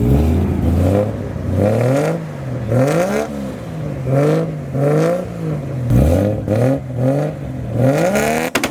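Sports car engine revved over and over, the pitch rising and falling about once a second. Near the end, a rapid string of exhaust pops and crackles starts.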